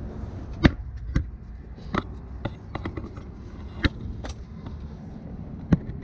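Scattered sharp metallic clanks and knocks of tools and parts being handled during engine-bay work, about eight in all, over a steady low background rumble.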